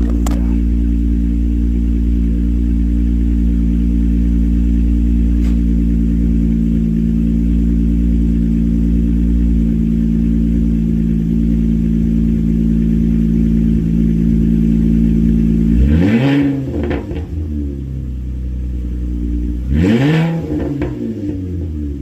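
2024 Nissan Frontier's 3.8-litre V6 idling through a straight-pipe exhaust, shortly after a cold start, then revved twice, about four seconds apart, near the end.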